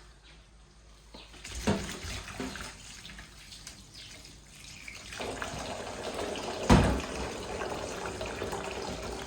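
Water running from a tap, starting about five seconds in. A sharp knock comes before it, and a louder knock comes while it runs.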